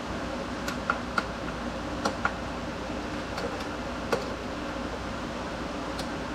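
A handful of light, sharp clicks and taps, irregularly spaced, over a steady background hum.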